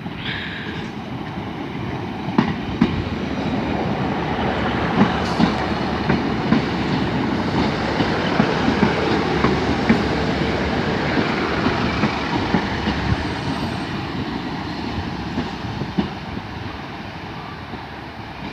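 Train running along the track, its wheels clicking over rail joints; it grows louder toward the middle and fades away near the end.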